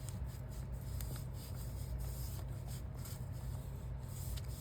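Foam ink-blending tool brushing and dabbing Distress Oxide ink onto a paper index card: a quick run of soft swishing strokes, several a second, over a steady low hum.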